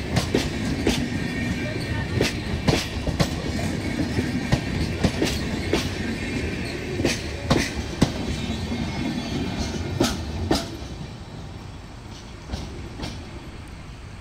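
Coaches of an Indian Railways passenger train rolling slowly past close by, wheels clicking over the rail joints in quick pairs over a steady rumble. About ten seconds in, the clatter stops as the last coach passes, leaving a fainter rumble that fades as the train moves away.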